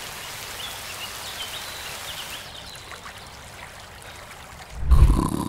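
Steady hiss of rain falling on wet mud, thinning out about halfway through, then a sudden loud low thump near the end.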